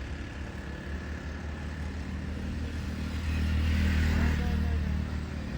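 Road traffic: a motor vehicle passes close by, its low engine rumble and tyre noise swelling to a peak about two-thirds of the way through and then fading.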